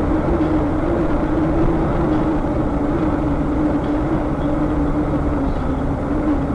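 Vehicle driving at a steady speed: a constant engine drone over low road rumble, with no crash or impact.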